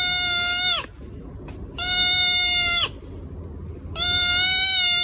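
A cat gives three long, steady meows about a second apart, each dropping in pitch at the very end.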